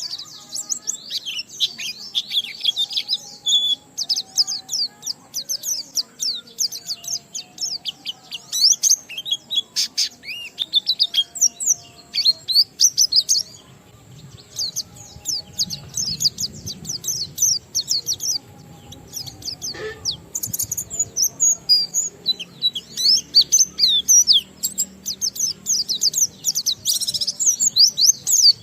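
A white-eye (pleci) sings a long, fast twittering song of high chirps and trills, the continuous 'ngalas' song valued in a bird in full song. The song thins out for several seconds midway, then comes back dense again.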